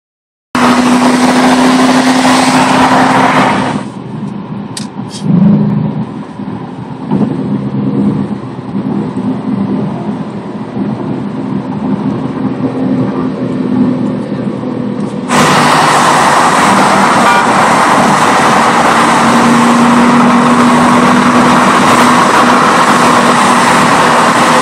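V8 muscle-car engines running at highway speed in a roll race. After about four seconds the noise eases to a quieter, varying cruise. About fifteen seconds in it jumps suddenly to a loud, steady full-throttle run that stays near clipping.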